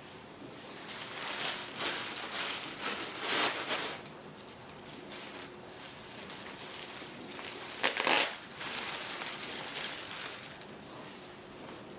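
Packaging being handled: crinkling and rustling in irregular bursts, with a sharper crackle about 8 seconds in.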